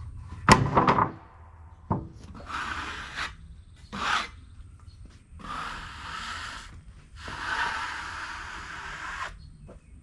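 Sawn pine boards being handled: a sharp knock with a short ring about half a second in, a lighter knock, then several scraping strokes of wood sliding on wood.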